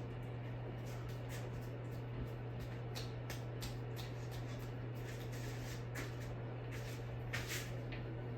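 Harbor Breeze Whitestar 52-inch ceiling fan running, with a steady low motor hum and scattered light clicks, two slightly louder ones near the end.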